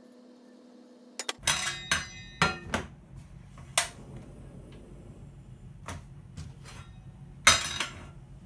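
Metal cookware and utensils being handled: a series of ringing knocks and clatters, loudest near the end. A low steady noise sets in about a second in.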